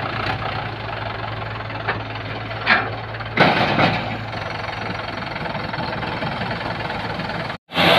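Tractor diesel engine idling with a steady, even knock. A couple of short, louder noises come about three seconds in, and the sound cuts out abruptly for a moment near the end.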